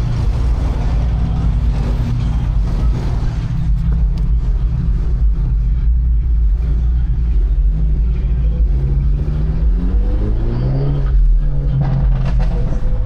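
Car engine running with a deep, steady rumble, then revving up in rising glides about nine to eleven seconds in before settling back to a steady note.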